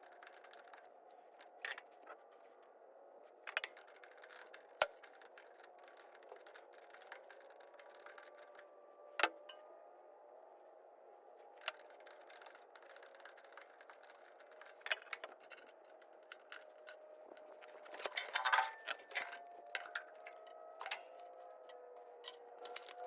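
Hand tools clicking and clinking on hydraulic hose fittings: scattered light metallic taps and ticks, a quick cluster of them near the end, over a faint steady hum.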